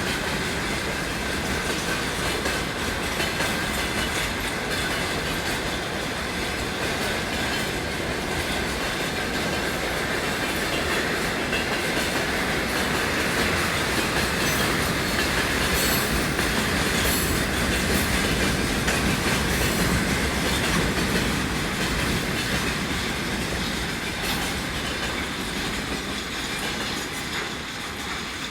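Freight train wagons rolling past at low speed, wheels clacking over rail joints with a faint steady squeal, a little louder in the middle and easing off near the end.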